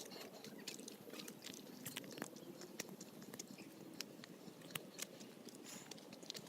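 Footsteps of hikers climbing a forest trail: faint, irregular crunching and clicking steps over a low, steady background hum.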